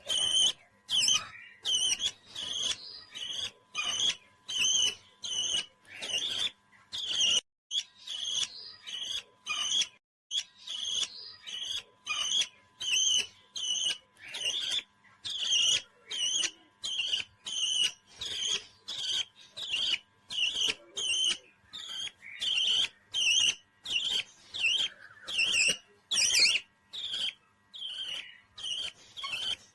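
A pet parrot chirping over and over in short, high calls, about two a second, with a couple of brief pauses.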